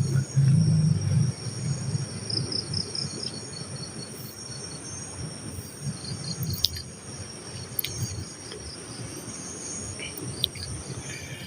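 Night insects, crickets, trilling steadily with short bursts of rapidly pulsed chirps. A low rumble is loudest in the first second or so, and a few sharp clicks come later.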